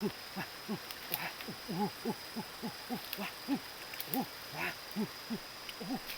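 Many short, low hooting animal calls, about three a second and overlapping, over a steady thin high-pitched tone.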